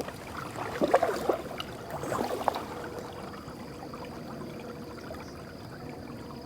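Canoe paddle strokes in lake water: a couple of louder splashes about one and two seconds in, then faint trickling and dripping.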